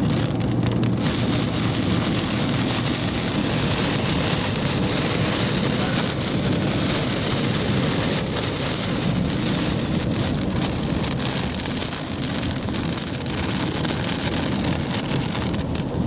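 Steady rain falling on a moving vehicle, heard from inside the cabin, with road and engine noise underneath. The rain hiss grows heavier about a second in.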